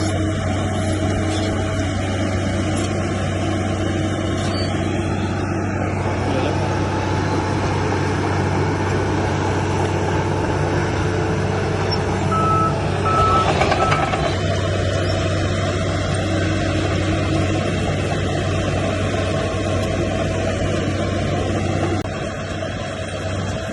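Heavy diesel earthmoving machinery running steadily with a constant low drone. About halfway through, a reversing alarm gives three short beeps.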